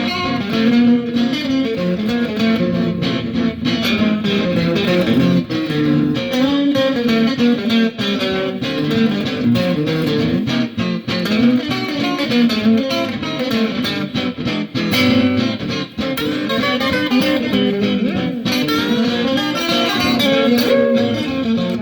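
Guitar music: plucked guitar notes moving through a melody without a break.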